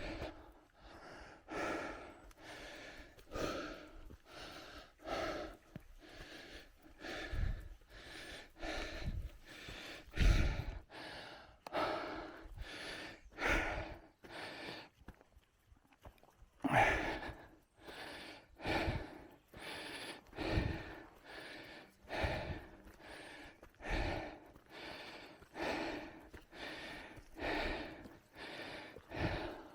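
A cyclist breathing hard and rhythmically while pedalling, one heavy breath about every one and a half to two seconds, with a short pause about halfway through.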